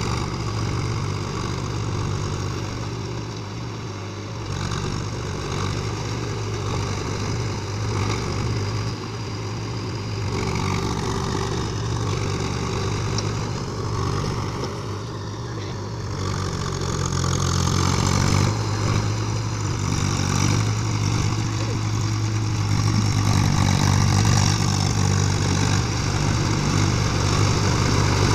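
Swaraj tractor's diesel engine running steadily as it pulls a plough, growing louder about two-thirds of the way through.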